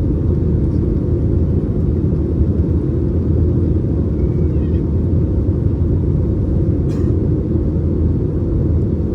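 Airbus A321neo cabin noise: engines and airflow as a steady low rumble, with one faint click about seven seconds in.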